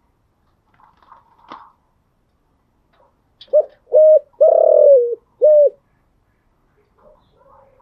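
Spotted dove cooing: one phrase of four low coos about halfway through, two short, then a long one that drops in pitch at its end, then a short one.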